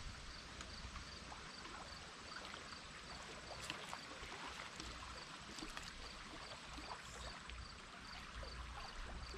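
Faint outdoor ambience: an insect chirping steadily at about three chirps a second over a low, even rumble.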